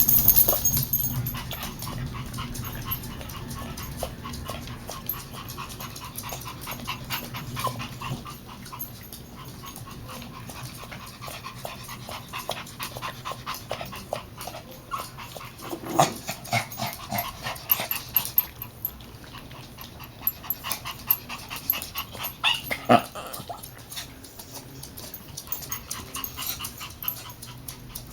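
Dog whimpering and breathing hard in fear of a thunderstorm, with many short clicking sounds and a few louder sudden sounds, about halfway in and again some seven seconds later.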